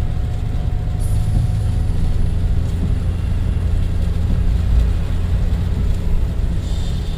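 Suzuki Jimny driving along a mountain road, heard from inside the cabin: a steady low rumble of engine and road noise.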